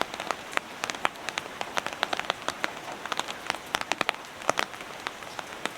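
Heavy rain falling: a steady hiss with many sharp, irregular taps of large drops striking close by.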